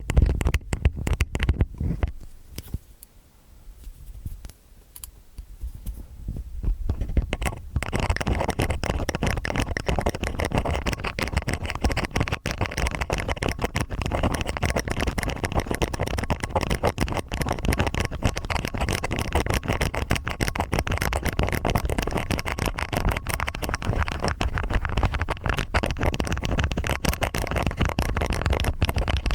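Stainless steel ear picks scraping and tapping in a microphone's ear: dense, close crackling and scratching with many sharp clicks. It drops to a faint rustle about 3 seconds in, then the steady scraping resumes about 8 seconds in.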